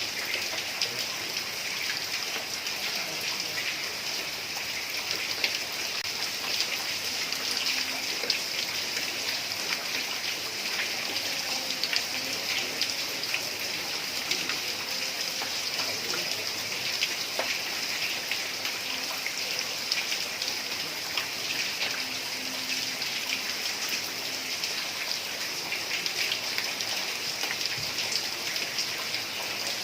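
Heavy rain falling steadily on a tiled roof, with many separate drop hits heard through the hiss.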